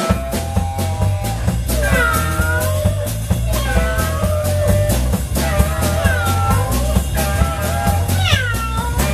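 Live blues band playing: bass and drums under a lead instrument wailing in bent notes that swoop and fall, phrase after phrase.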